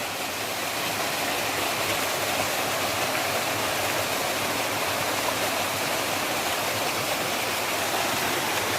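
Natural waterfall splashing, a steady unbroken rush of falling water.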